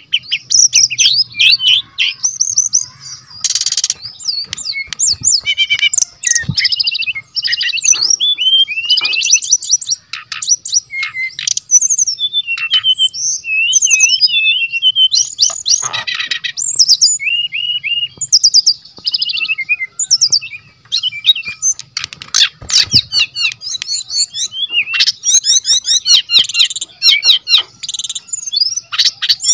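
Brown-chested jungle flycatcher singing loudly and without pause: a fast, varied run of whistles, chirps and rapid trills, packed with imitated phrases of other birds' songs.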